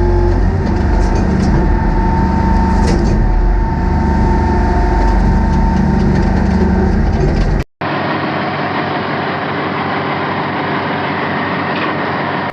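Diesel engine of a Hopto H1900 hydraulic excavator running steadily, with a constant hum. It cuts out briefly about two thirds of the way in, and a second, thinner-sounding stretch of the machine running follows.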